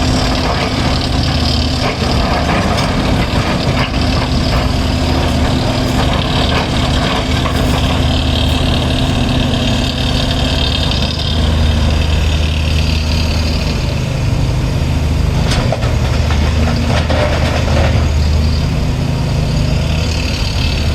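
Heavy diesel machinery engine running steadily at a constant pitch, with a low, even drone and mechanical noise over it.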